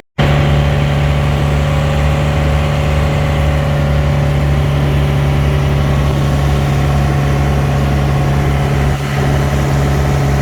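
Small boat's engine running at a steady, unchanging speed, loud and close.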